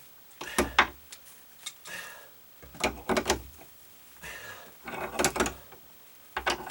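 Clusters of short metallic clicks and clacks, four or so runs a second or so apart: a tool and hardware being handled on a bolted steel hold-down bracket.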